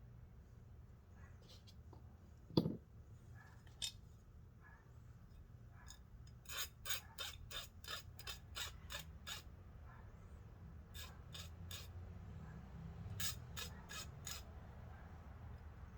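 Runs of quick rasping strokes, about three a second, from a hand tool being worked back and forth, in three bursts, with a single sharp knock a few seconds before the first.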